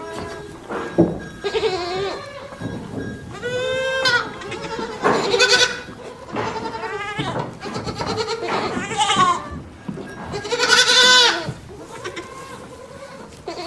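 Bleating farm animals: about six wavering, pitched calls one after another, the loudest near the end.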